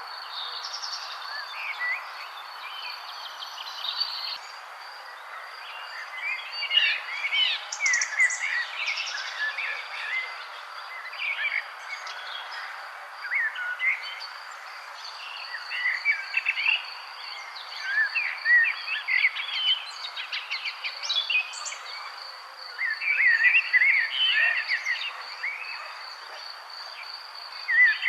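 Several songbirds chirping and singing in short, overlapping phrases of quick rising and falling notes, over a steady high pulsing trill and an even background hiss.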